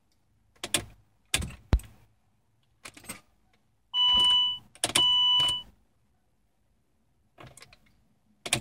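A 2007 Saab 9-3's ignition is tried: a series of short clicks, including the single click of the starter circuit, with no cranking and no engine running. Two electronic warning beeps from the car sound about four and five seconds in.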